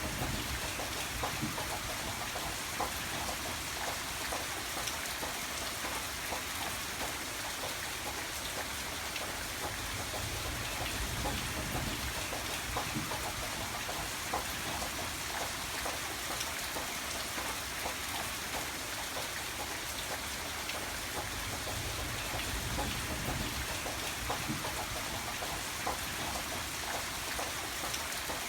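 Steady rain falling, with many individual drops ticking on a surface over an even hiss, and a faint low rumble that swells and fades now and then.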